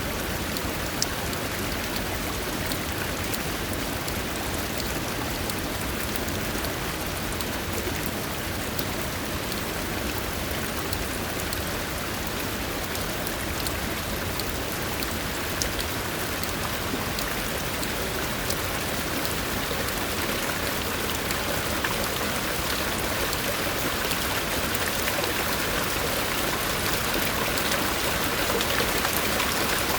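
Steady rain falling, with scattered drop ticks through an even hiss of water. The hiss grows slowly louder toward the end.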